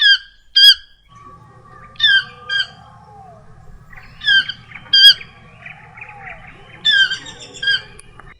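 A bird giving loud, short, harsh calls in pairs, each call bending down in pitch, four pairs spaced about two seconds apart. Fainter chirps from other birds run underneath.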